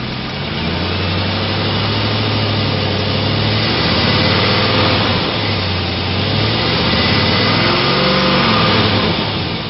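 A 2006 Chevrolet Tahoe's 5.3-litre V8 running, its pitch rising and falling a couple of times as it is revved lightly.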